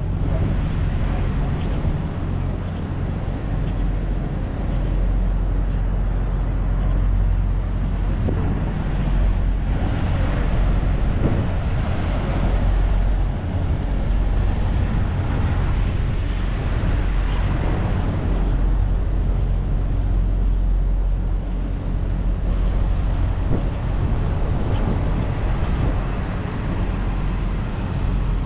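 Steady low rumble of truck and car engines with traffic noise, swelling and easing now and then.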